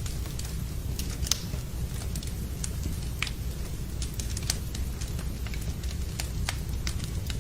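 Wood fire crackling in a fireplace, with irregular sharp pops and snaps, over a steady low rumble of rain.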